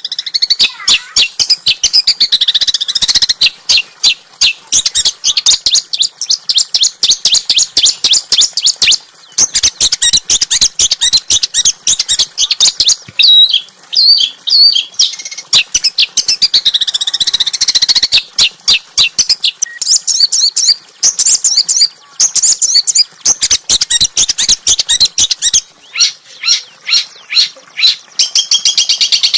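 Small songbird singing loud, sharp, rapid chirps and trills, many notes a second, with short breaks between runs.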